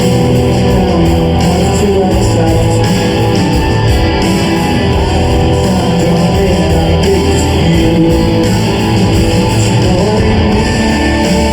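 Rock band playing live, with strummed electric guitar prominent over a continuous, loud full-band sound.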